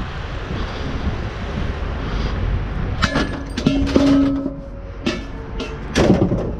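Wind buffeting the microphone, then metal scrap clanking and rattling as pieces are moved, with one piece ringing briefly about a second into the clatter and another loud clank near the end.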